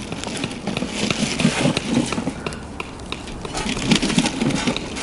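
Wood pellets burning hard in a stainless wood-gas camp stove: a steady rushing flame with scattered, irregular crackles and ticks.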